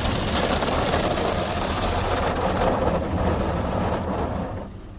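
Ryko SoftGloss XS2 automatic car wash working over the car, heard from inside: a loud, dense wash of water spray and foam brushes on the body with a deep rumble, dying away sharply near the end.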